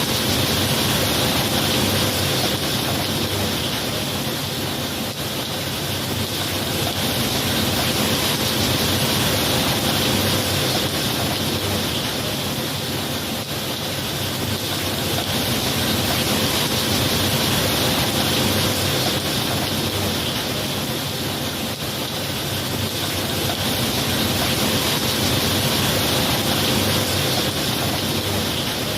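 Steady heavy rain falling, an even hiss that gently swells and eases every several seconds.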